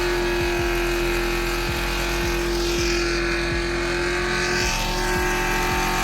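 A car engine held at steady high revs, its pitch staying level with a slight dip about five seconds in.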